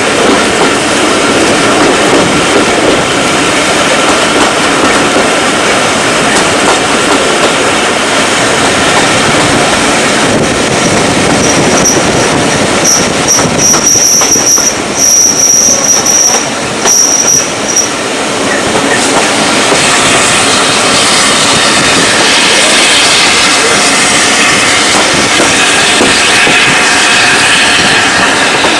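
Train running along the rails with a steady, loud rolling noise. About halfway through, a high-pitched wheel squeal comes and goes for several seconds.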